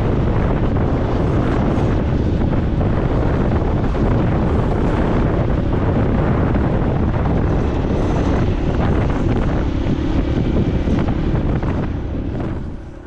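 Wind buffeting the microphone while riding a motorcycle, with the bike's running and road noise underneath; it fades out near the end.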